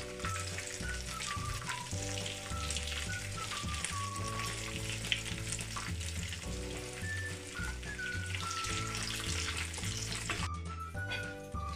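Battered mushrooms deep-frying in a pan of hot oil: a steady, dense crackling sizzle that cuts off suddenly near the end. Background music with a melody and a rhythmic bass line plays under it throughout.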